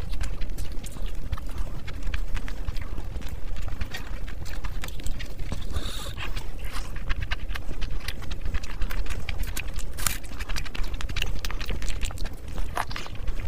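Close-miked eating sounds: wet chewing and lip smacking on a mouthful of fried rice and chicken, a dense run of squelchy clicks, with fingers squishing through curry-soaked rice.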